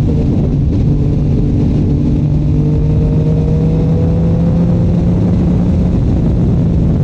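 Yamaha MT-09 three-cylinder engine through a Shark Street GP exhaust, running at steady throttle on the move, its note climbing slowly in the second half as the revs build. Wind noise rushes over the microphone throughout.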